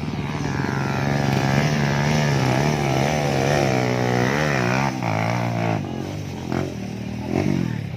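Motocross bike engine revving hard on a steep climb, its pitch wavering up and down, then falling away about five seconds in, followed by a couple of short throttle blips near the end.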